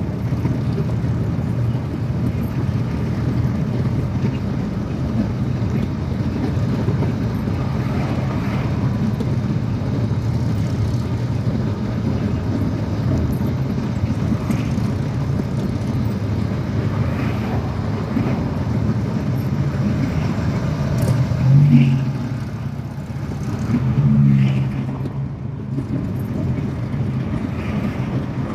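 Motorcycle running on the road with steady engine rumble and road and wind noise. Twice, about three quarters of the way through, the sound briefly gets louder.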